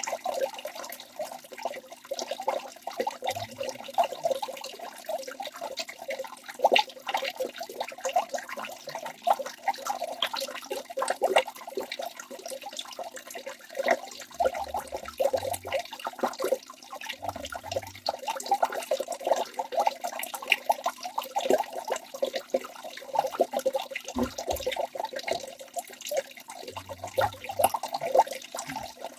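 Waterfall: water rushing and splashing continuously, with many small splashes in an uneven, churning flow.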